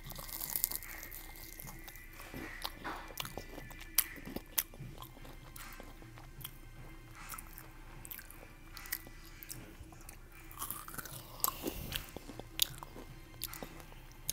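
Close-up chewing and biting of crispy breaded fried food, with irregular sharp crunches, a few of them louder.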